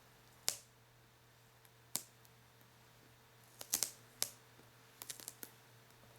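Close-miked sharp clicks and crackles from paper and plastic being handled and peeled from a sticky surface, in single snaps and short quick clusters.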